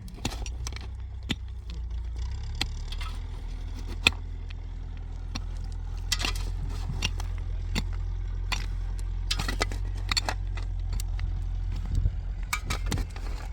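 Tractor engine running steadily at a low, even rumble, with scattered sharp knocks and scrapes over it.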